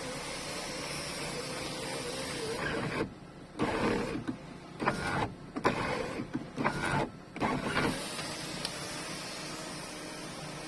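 Electric sunroof motor and mechanism of a Chevrolet Gentra running as the freshly repaired sunroof is tested, moving smoothly and lightly. The run is broken by several short stops and louder bursts in the middle.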